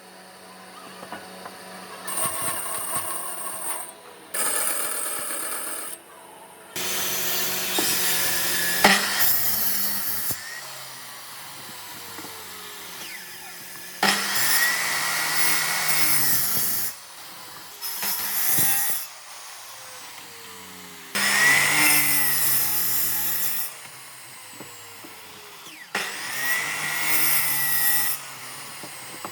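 Power tool working wood in repeated bursts of two to three seconds, with quieter stretches between them.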